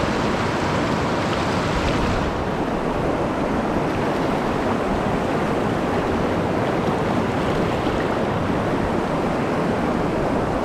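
Steady rush of a fast-flowing mountain stream, its higher hiss softening a little about two seconds in.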